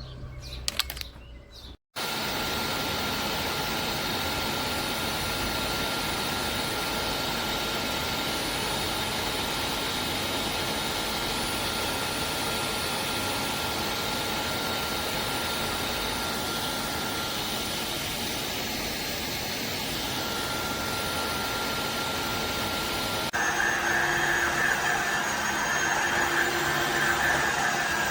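Tineco iFloor 5 Steam wet-dry floor cleaner's motor running, a steady rushing sound with a faint high whine. About two seconds in it drops out briefly, and near the end the sound shifts to a slightly louder run with a different, higher whine.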